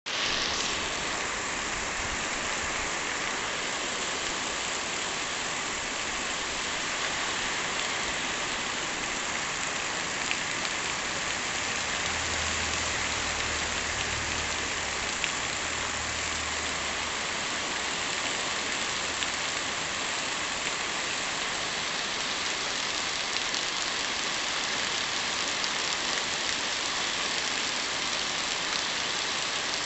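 Heavy rain pouring steadily, an even hiss of rain striking surfaces. A low hum joins in for several seconds around the middle.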